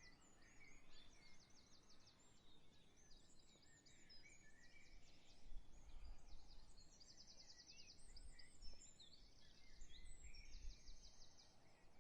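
Faint birdsong from several birds: short rapid high trills recur every few seconds among scattered chirps, over a faint low rumble.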